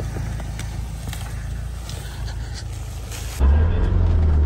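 Mitsubishi Pajero off-road 4x4 engine running low and steady as it creeps down a steep slope in first gear, with a few faint clicks. About three seconds in, the sound jumps to a much louder, deeper steady engine drone, as heard from a camera mounted on a vehicle.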